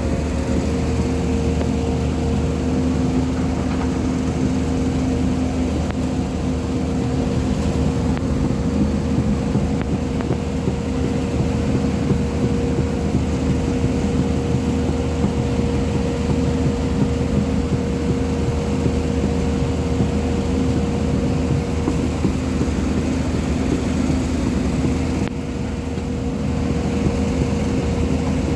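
JCB 215 hydraulic excavator's diesel engine running steadily under work, a constant low drone with a steady whine above it. The level dips briefly about 25 seconds in.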